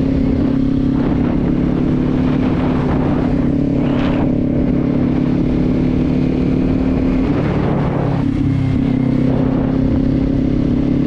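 Kawasaki Z400's 399 cc parallel-twin engine running steadily while riding, over a constant low rush of road and wind noise. About eight seconds in, the engine note dips briefly and then settles again.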